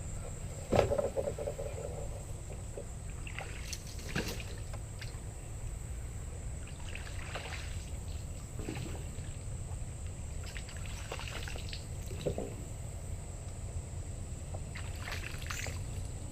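Water splashing and trickling in several short bursts around a small boat, with a sharp knock about a second in that rings briefly.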